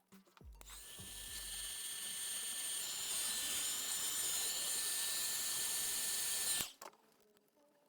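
Small electric repair tool running steadily for about six seconds, a hiss with a thin high whine, switched on abruptly and cut off suddenly.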